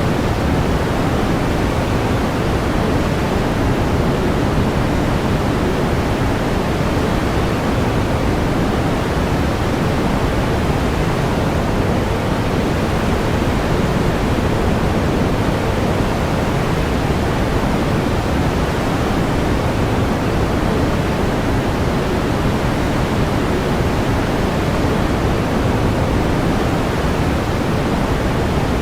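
Steady pink noise: an even, unchanging hiss, fuller in the low end and softer in the highs.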